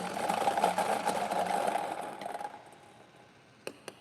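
Electric lottery draw machine running after its button is pressed, its twelve numbered balls rattling as they are mixed. The rattle dies away about two and a half seconds in, and a few sharp clicks follow near the end.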